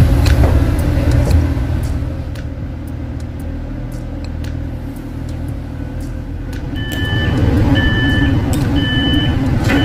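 German regional train's running rumble dying away as it slows into the station, then the door's signal beeping, short beeps about once a second, as the green door-open button is pressed.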